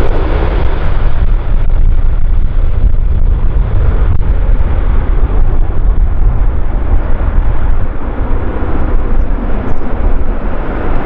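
Strong wind buffeting the microphone: a loud, rough rumble, heaviest in the low end, that flutters and dips unsteadily.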